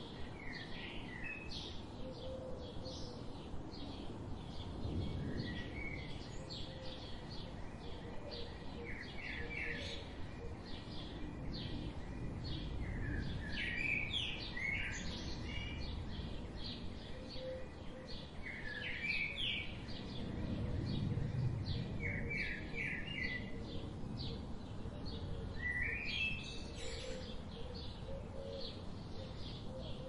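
Songbirds chirping and trilling, with short quick notes and rapid trills repeating throughout. Under them runs a steady low background noise that swells slightly twice.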